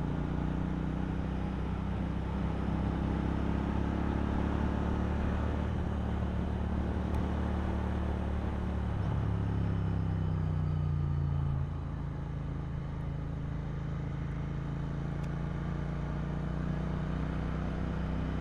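Royal Enfield Interceptor 650's 648 cc parallel-twin engine running steadily while cruising, with road and wind noise over it. The engine gets a little quieter about twelve seconds in.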